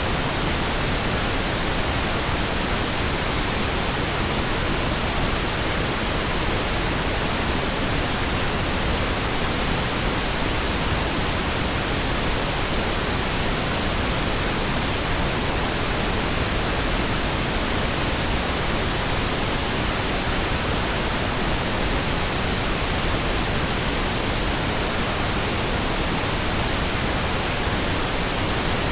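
Steady synthetic pink noise: an even, unbroken hiss across the whole range, with no changes or interruptions.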